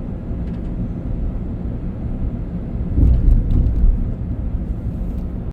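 Car driving, with steady low road and tyre rumble heard from inside the cabin. About three seconds in the rumble gets louder for a second or so, with a few short knocks, as over a rough patch.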